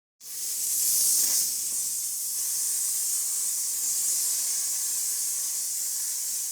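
Paint spraying onto a diecast model car body: a steady high hiss that starts abruptly and cuts off after about six and a half seconds.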